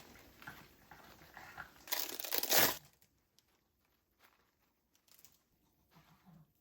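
Crinkling of a wrapper being handled, with a loud burst of crinkling about two seconds in, then only a few small soft handling sounds.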